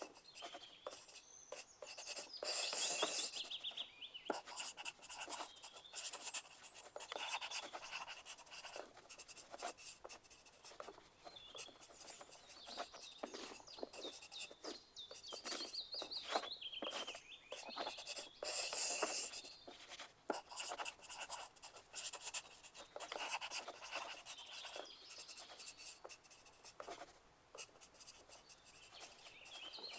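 Pencil writing on paper: quick, irregular scratching strokes that run on without pause, louder about three seconds in and again shortly before twenty seconds.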